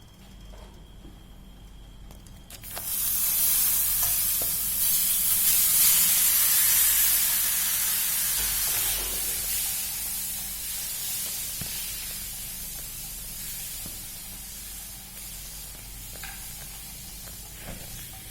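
Hot frying oil sizzling loudly as food goes in about three seconds in, the sizzle peaking soon after and then slowly dying down as the oil settles.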